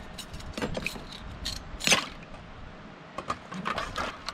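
Light clatter of camp dishes and utensils being handled for washing: a string of small clicks and knocks, the sharpest about two seconds in.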